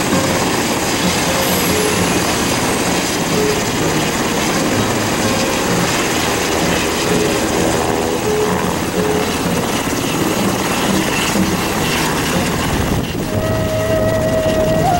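Helicopter running close by, a loud steady rush of rotor and engine noise. Near the end the noise drops away and music comes in.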